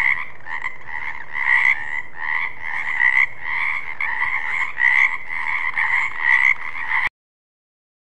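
Frog croaking in a steady run of repeated calls, about one or two a second, which cuts off suddenly near the end.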